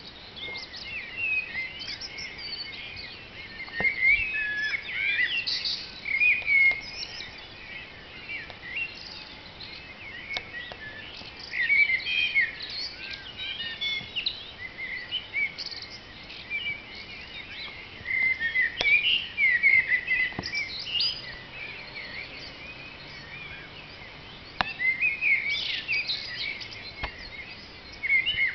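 Dawn chorus: several songbirds singing at once, with overlapping chirps and whistled phrases that swell into louder clusters every few seconds.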